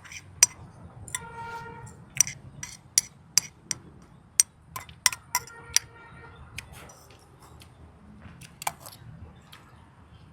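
Utensils clinking against a dish while eating: a quick run of sharp clicks through the first six seconds, thinning out after. A brief pitched tone sounds twice behind them.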